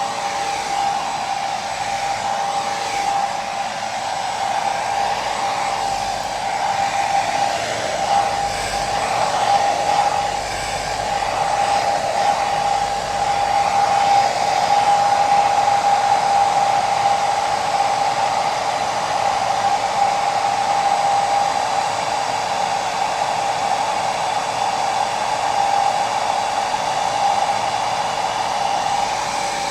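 Hair dryer running continuously: an even blowing hiss with a steady whine at one pitch.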